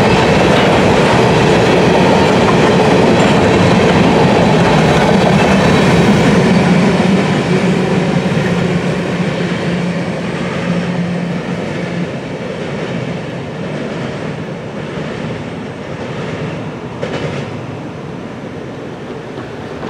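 Freight train of covered hopper cars rolling past close by, wheels running on the rails with a steady low hum. About seven seconds in the sound starts to fade steadily as the end of the train moves away down the track.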